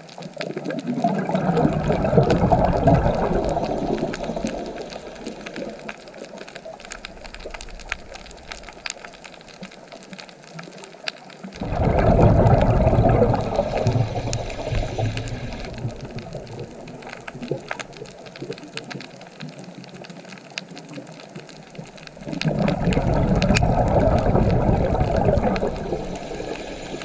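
Ocean waves breaking and washing up the shore, three times about ten seconds apart, each surge rising quickly and fading slowly into a quieter hiss.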